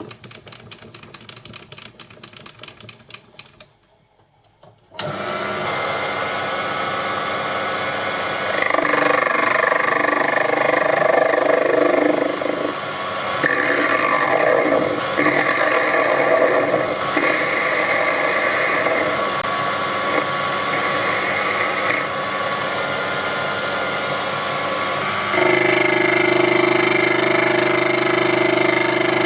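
Rapid clicking, then a brief hush. Then the Proxxon PD 250e mini lathe's motor starts suddenly about five seconds in and runs steadily, with a whine of several steady tones. From about eight seconds in, a harsher cutting noise joins it as the tool takes a light facing or turning pass on the steel nut blank. Near the end the running tone shifts lower and gets stronger.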